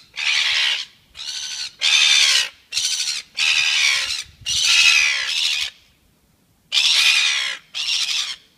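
Bird squawking over and over, loud calls of half a second to a second each, about one a second, with a pause of about a second roughly two-thirds of the way through.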